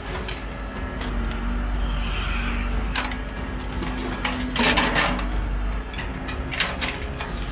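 WL-Model RC excavator's small electric motors whining as the boom and bucket work, with the bucket scraping and clattering through loose dirt and rocks; the loudest scrape comes a little past halfway.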